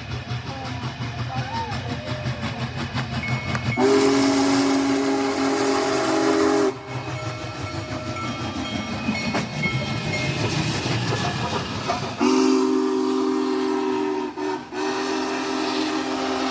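Union Pacific Big Boy steam locomotive passing with the low rumble of its running gear, blowing its chime whistle twice: one blast about four seconds in lasting about three seconds, and a second from about twelve seconds in, briefly broken near the end.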